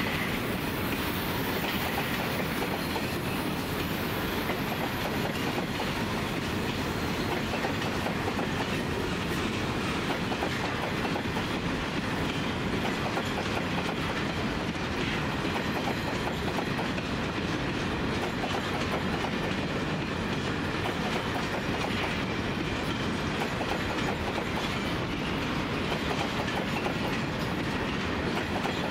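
Empty grain hopper wagons of a freight train rolling past, a steady rumble with wheels clicking over the rail joints.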